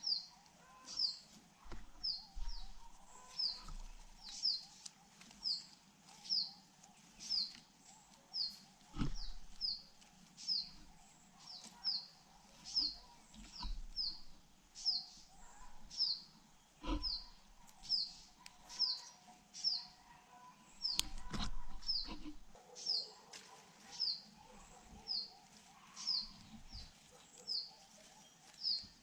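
A single bird calling a short, high, falling chirp over and over, about once a second, with a few brief knocks in between.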